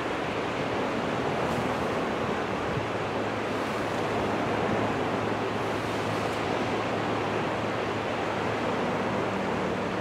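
Jet engines of a twin-engine widebody airliner running, a steady rushing noise with a faint low hum underneath that holds level throughout.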